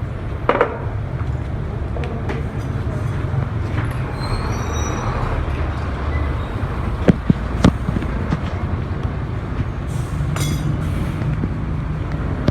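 Steady low background rumble, with a few sharp clicks and knocks: one about half a second in, and a cluster of three about seven seconds in.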